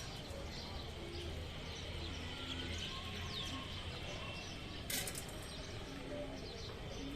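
Birds chirping, many short high calls in quick succession, over a steady low rumble. One brief sharp noise about five seconds in.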